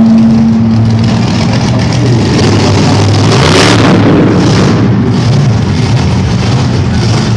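Monster truck engines running and revving, the pitch rising and falling. A steady held tone stops a little over a second in.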